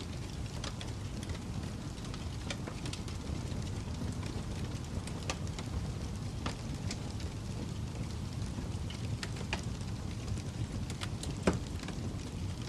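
Fire crackling: a steady low rumble of burning wood with irregular sharp pops and snaps, one louder pop near the end.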